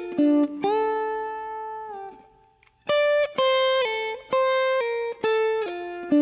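Clean guitar playing a single-note lick: a few quick notes, one held for about a second that slides down at its end, a brief pause, then a fast run of notes ending on a held low note.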